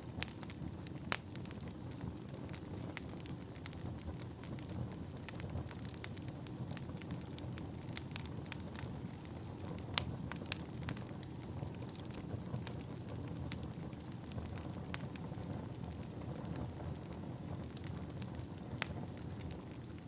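Wood fire burning in a fireplace, crackling with scattered sharp pops over a low steady rumble; the loudest pops come about a second in and about halfway through.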